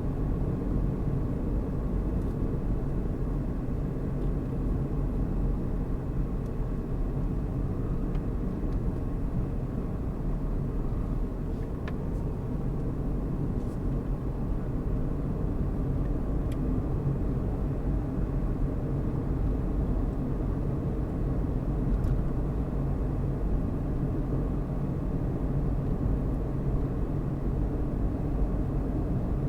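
Steady low rumble of a car driving, tyres on the road and the engine running at an even speed, with a few faint ticks.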